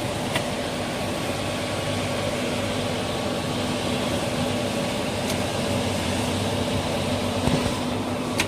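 PE shrink-film bundling machine (film sealer-cutter feeding a heat-shrink tunnel) running with a steady mechanical hum and blower noise, broken by a few sharp clicks.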